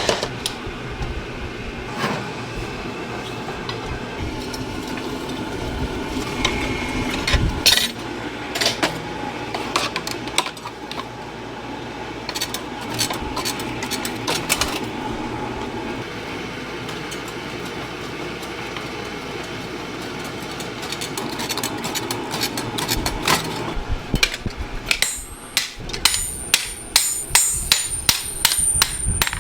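Hammering on metal in a workshop: scattered sharp knocks over a steady machine hum, then a fast run of ringing taps near the end.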